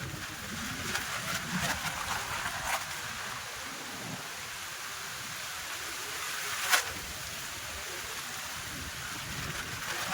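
Steady rushing of wind, with one sharp knock about two-thirds of the way through.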